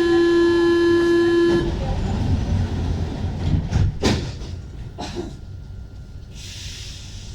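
Door-closing warning tone of a Paris Métro MP 05 train: a loud steady single-pitched beep that cuts off about a second and a half in. After it comes the low rumble of the train with a few clunks around four and five seconds, growing quieter.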